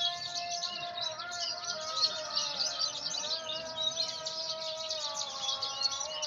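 Branjangan (Javan bush lark) singing a fast, unbroken run of high chirps and trills.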